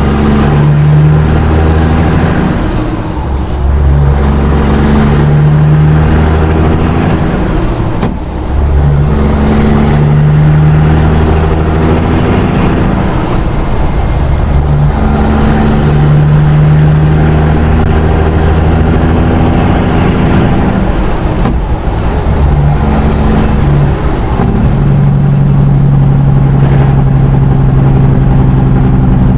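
Diesel semi truck accelerating up through its gears: engine and turbo whistle rise with each gear, then dip at each of about five shifts, before settling into a steady pull near the end.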